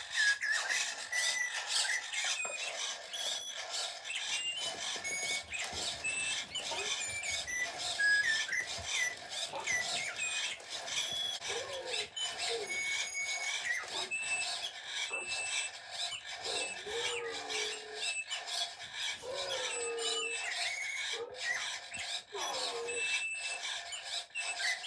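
Motion-activated toy songbird chirping and trilling continuously in short high whistled phrases as its powered swing keeps it moving; it sings only while it swings. Many short clicks run through the song.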